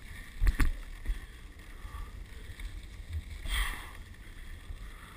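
Dog sled running along a snow trail: a steady low rumble and hiss of the runners over the snow, with two sharp knocks about half a second in and a brief rush of hiss a little past three and a half seconds.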